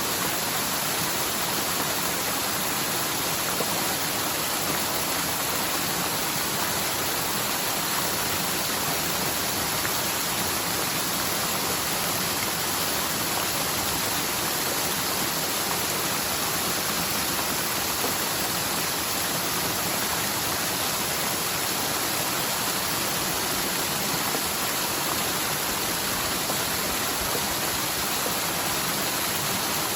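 Rushing water of a forest mountain stream running full and steady, swollen by heavy typhoon rain in a channel that is normally nearly dry.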